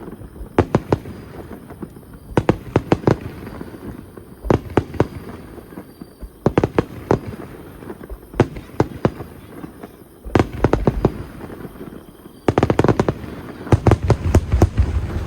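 Aerial fireworks bursting: a cluster of several sharp bangs and cracks about every two seconds over a low rumble. The bursts come thicker and heavier near the end.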